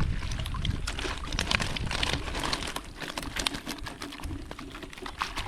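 Water splashing and trickling with a dense crackle of drips, over a low wind rumble on the microphone.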